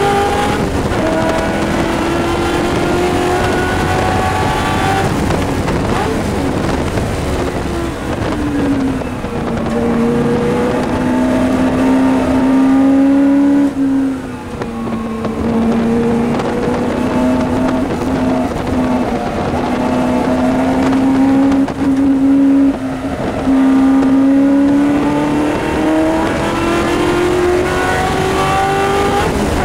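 Shelby Mustang GT350R's 289 V8 racing, heard from inside the cabin. The engine note climbs under acceleration and falls away when lifting off, with two short dips in the sound partway through.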